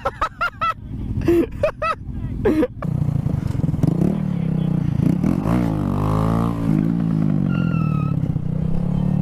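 A string of short honking toots in the first few seconds. Then a small motorcycle engine running, revving up and back down about midway, and settling back to a steady run.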